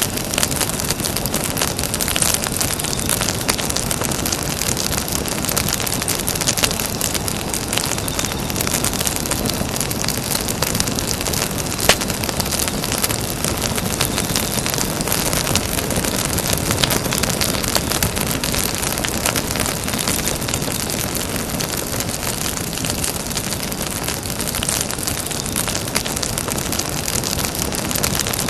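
Campfire burning: a dense, steady crackle of small pops over a rushing hiss, with one sharper pop about twelve seconds in.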